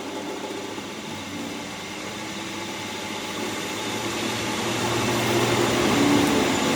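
Steady mechanical hum of running machinery with a low drone, growing gradually louder.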